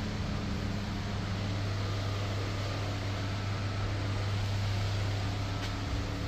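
Steady low mechanical hum with a fan-like hiss from laundromat machinery and ventilation, with a faint click near the end.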